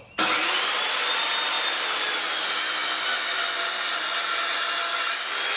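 Sliding miter saw switched on, its motor whining up to speed in the first second or two, then running steadily through a cut in a wooden 2x4.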